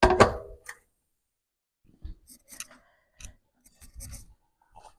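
Kitchen cookware and utensils being handled: a loud clatter with a short ring right at the start, then after a pause a run of small clicks and knocks.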